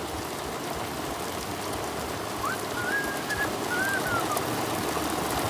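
Steady rain falling, an even hiss throughout. A faint, thin gliding whistle sounds for about two seconds in the middle.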